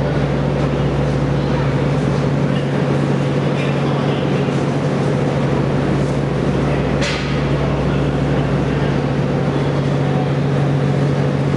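Steady low electrical-mechanical hum of a stationary train's equipment, with background voices. A brief sharp sound cuts through about seven seconds in.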